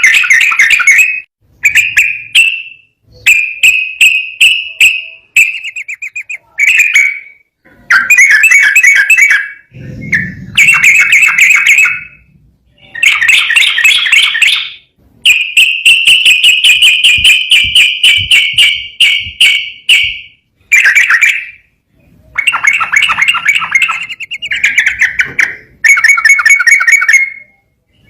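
Yellow-vented bulbul (trucukan) singing loud, chattering, bubbling phrases one after another with short pauses between, including one long unbroken run of about five seconds midway.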